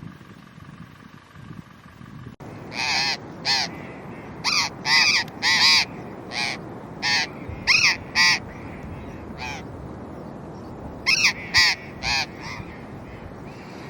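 A bird giving a series of loud, short calls, singly and in quick runs of two or three, each rising then falling in pitch. Before them, a low rumble cuts off about two seconds in.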